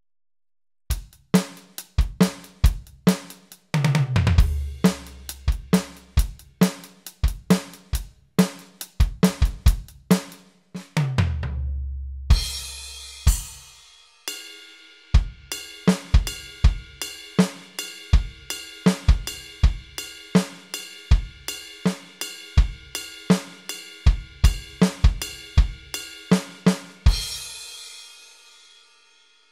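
Electronic drum and percussion samples from a Roland SPD-SX Pro sampling pad's factory kit, played as a beat of kicks, snares and cymbals. Two deep booms fall in pitch, about 4 and 11 seconds in. From about 12 seconds a long ringing tone sustains under the hits and fades out near the end.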